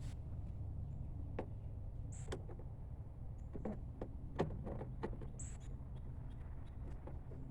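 Scattered light clicks and taps of a screwdriver and hands working on a car's plastic interior door panel and trim, with one sharper knock about four seconds in, over a steady low hum.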